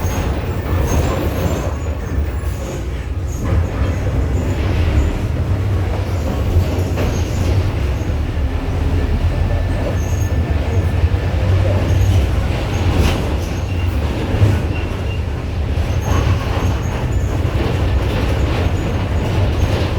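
Inside a VW 17-230 OD city bus with a Marcopolo Torino body, on the move: a steady low diesel engine drone with road noise, and scattered rattles and clicks from the body and fittings.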